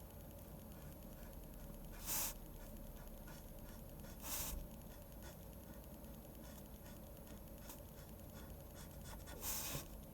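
Pen scratching on paper in drawing: faint small strokes throughout, with three longer, louder strokes about two, four and a half and nine and a half seconds in.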